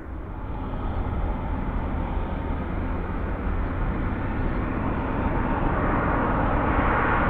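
Jet airliner on approach to land: a steady engine rush growing louder as the aircraft comes closer.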